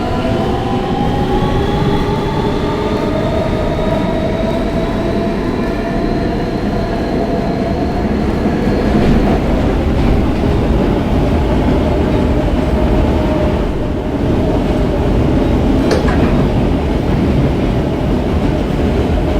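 R160B subway car with Siemens propulsion, heard from inside the car. Its motor whine rises in pitch as it accelerates out of the station over the first several seconds, then it runs on steadily with a rumble of wheels on rail. A sharp clack comes about sixteen seconds in.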